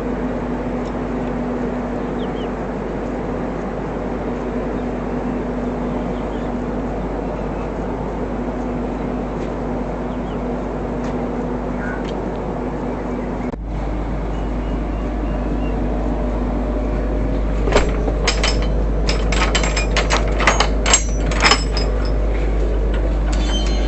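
Steady running noise of a passenger train with a low hum, heard from inside the coach. The sound breaks off abruptly about halfway through. A few seconds later comes an irregular run of sharp clicks and knocks.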